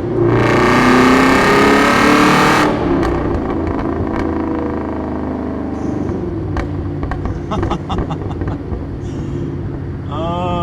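Straight-piped Boss 260 V8 exhaust of a 2005 Ford BA XR8 ute, miked at the exhaust: a hard, loud burst of acceleration with rising pitch for about two seconds near the start, then the engine settles to a steadier, quieter run.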